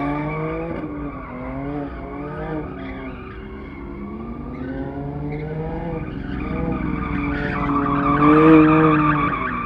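Car engine held at high revs, its pitch rising and falling, with tyres squealing, as in drifting; loudest near the end.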